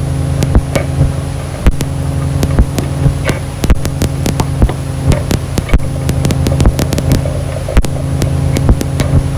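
Ambient noise music: a steady low drone of stacked tones with a thin high whine over it, broken by irregular crackling clicks.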